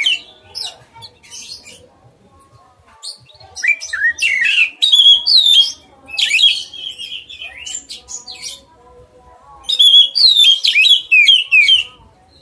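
A songbird singing loud phrases of fast whistles and chirps that sweep up and down, in three bursts separated by pauses of a few seconds, with fainter calls between them.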